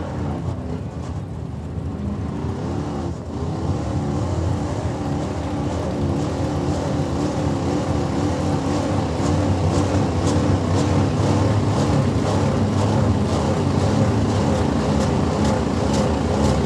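A pulling truck's engine running hard at high revs under load as it drags the weight sled, its pitch wavering and growing louder after about three seconds. In the second half, a regular series of knocks as the truck bounces down the track.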